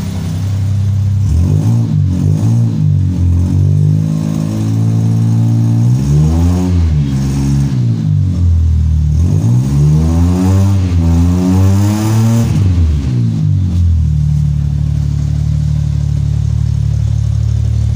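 Suzuki 800 cc three-cylinder petrol engine, freshly started after months of standing, being revved: a few quick blips, then two longer rises and falls in revs, before it settles to a steady idle for the last few seconds.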